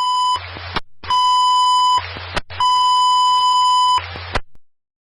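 Three long electronic beeps at one steady pitch, each about a second long, with a burst of hiss between them and a sharp click after each, then silence.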